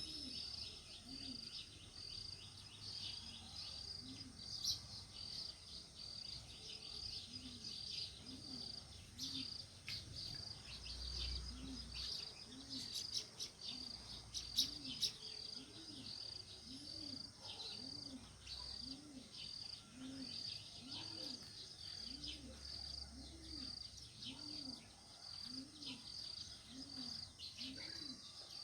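House sparrows chirping in short, irregular notes over a steady insect-like trill that pulses about two to three times a second.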